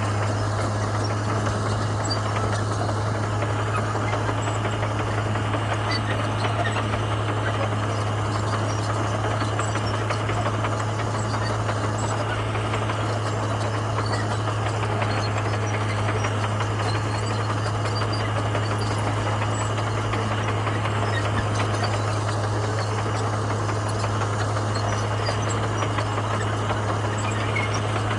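Komatsu bulldozer's diesel engine running steadily with a constant low hum, no change in pitch or load.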